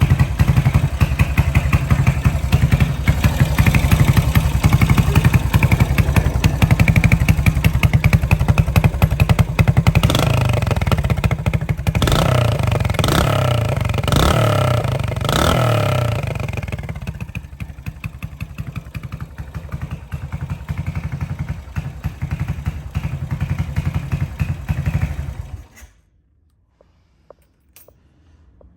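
1978 Yamaha SR500's air-cooled single-cylinder four-stroke engine running through a Capton-style muffler. It idles, is revved four times in quick succession, settles back to idle, and is switched off near the end.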